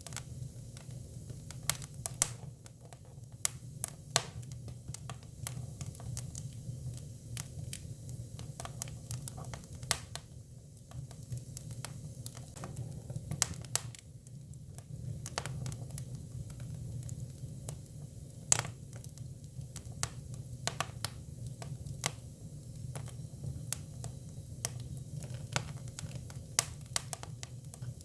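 Hinoki cypress firewood burning, with irregular sharp crackles and pops over a steady low rumble of the fire.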